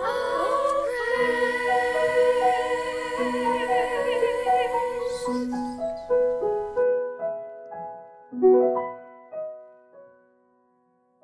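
A singer with a wide vibrato accompanied by piano. The voice stops about two-thirds of the way through, a few more piano notes ring and fade away, and it goes quiet near the end.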